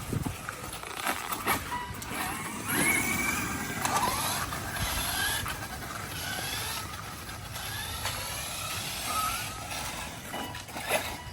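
1:8 RC buggy's electric motor whining, rising and falling in pitch as it speeds up and slows down, over a steady hiss.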